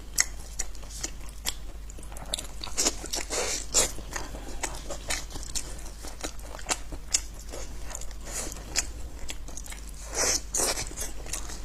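Close-miked eating: a person biting and chewing food, with irregular crunchy, crisp clicks several times a second.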